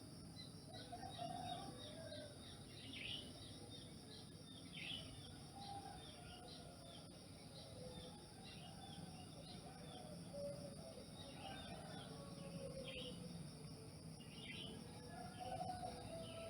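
Faint bird chirping: many short, quick chirps scattered through, over a steady low background noise.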